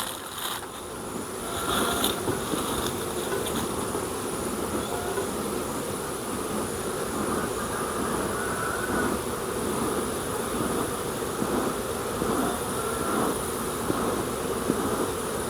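Many honeybees buzzing around a hive in a steady, dense hum, with single bees' flight tones rising and falling through it, as the colony is smoked before opening.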